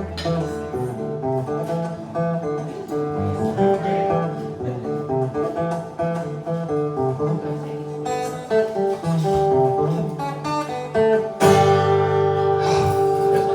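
Acoustic guitar playing an instrumental passage of picked notes and chords, with a loud strummed chord near the end.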